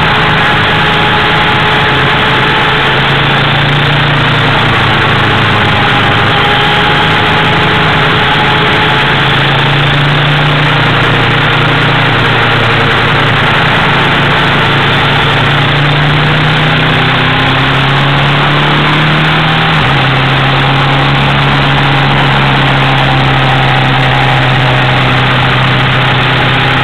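Triumph Thruxton's air-cooled parallel-twin engine running hard at track speed, recorded onboard over a steady rush of wind. The engine note rises and falls several times and drops abruptly about two-thirds of the way through, then holds steady.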